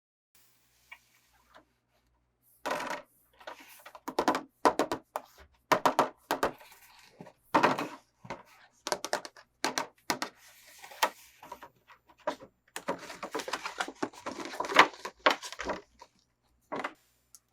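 Hands unboxing toys: irregular clicks, taps and crinkling rustles of plastic and cardboard packaging, starting about two and a half seconds in and going on in quick uneven bursts.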